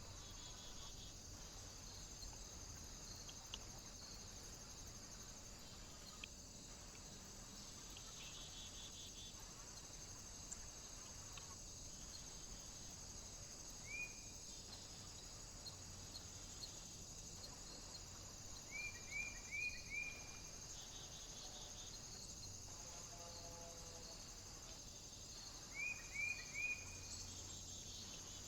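A small bird calling with short, bright, clipped notes: a single note about halfway, then a quick run of four, and a run of three near the end, over a steady high hiss.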